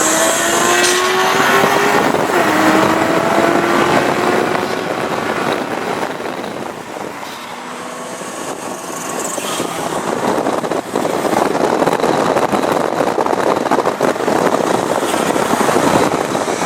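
Performance car engines accelerating hard, their pitch climbing with a drop near three seconds in at an upshift. The sound eases off around the middle and comes back as a louder rushing noise for the last part.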